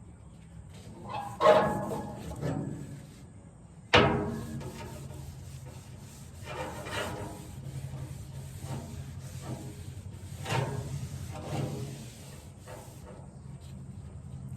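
A rag rubbing along the wooden handle of a hard rake, working oil into the wood, in uneven scraping strokes. There is a sharp knock about four seconds in.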